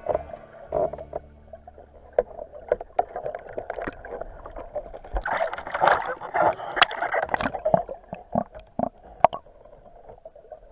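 Water sloshing and splashing close to the microphone, with irregular clicks and knocks, busiest in the middle.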